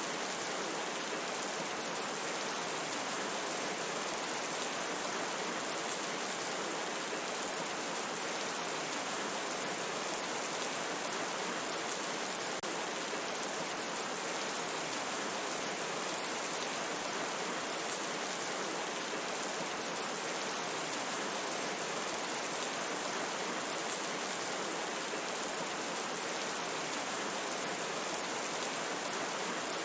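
Steady, even rain falling in a forest, a continuous hiss with no separate drops or thunder standing out.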